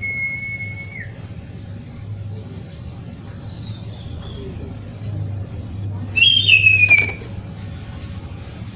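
Oriental magpie-robin calling: a clear held whistle at the start, a faint falling note a few seconds in, then a loud burst of rapid, slightly falling notes lasting about a second, over a steady low hum.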